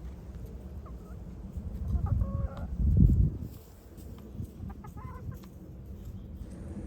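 Hens clucking, one short call about two seconds in and another near five seconds, over a low rumbling noise that swells about three seconds in.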